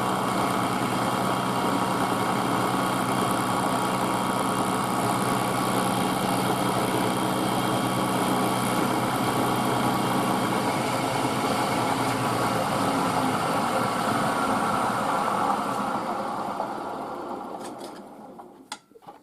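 Milling machine running steadily with its spindle turning, then switched off about sixteen seconds in and winding down to a stop over a few seconds, followed by a few light clicks.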